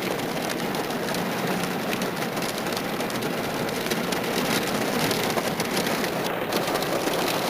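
Heavy rain falling steadily on surfaces: a dense, even hiss made of many small drop impacts.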